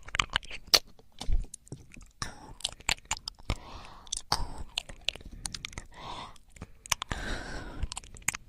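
Close-up wet clicking and crackling right at the microphone, irregular and many, with soft rustling between the clicks: ASMR trigger sounds.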